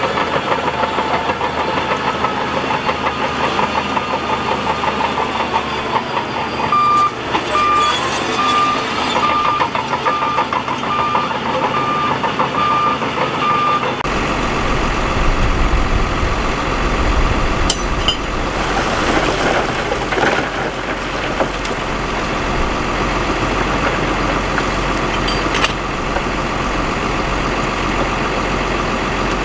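Heavy earthmoving machinery running, with a reversing alarm beeping about one and a half times a second for several seconds in the first half. About halfway through the sound changes abruptly to a heavier, deeper engine rumble.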